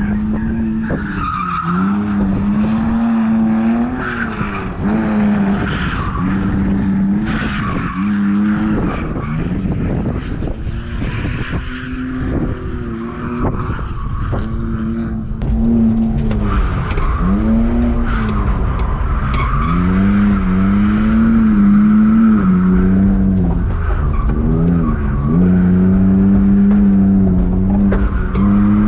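BMW E46 drift car on a drift run: the engine revs up and down over and over with the throttle while the tyres squeal and skid. It gets louder about halfway through.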